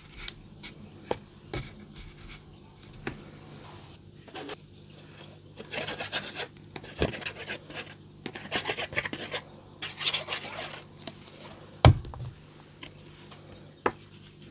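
Paper card being rubbed and scraped at a craft table, in two stretches of scratchy rubbing, with small taps and clicks and one sharp knock near the end.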